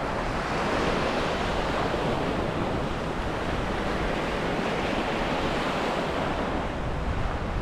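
Steady rush of ocean surf breaking and washing up a sandy beach, with wind rumbling on the microphone.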